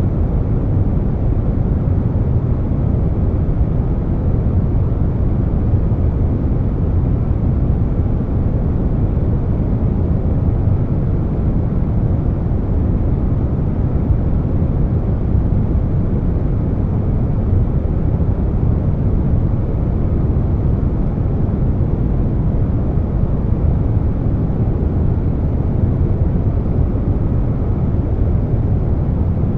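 Steady air-conditioner noise blended with brown noise: an even, deep rushing hiss weighted toward the low end, with no changes.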